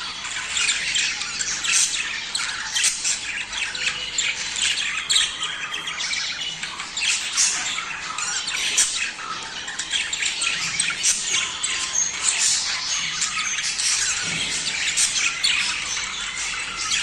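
A flock of budgerigars chattering, with many overlapping warbles, chirps and squawks, dense and continuous.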